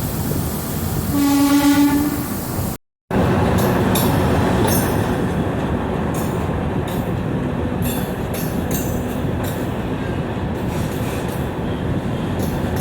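Diesel multiple-unit train sounding its horn once for about a second over running noise. After a cut, the train runs along the track, its wheels clacking over rail joints.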